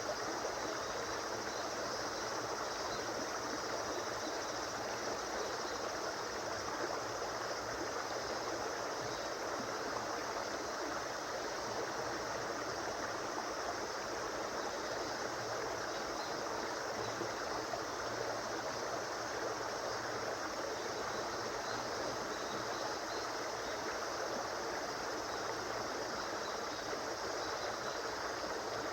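A river or stream flowing over stones: steady rushing and burbling water.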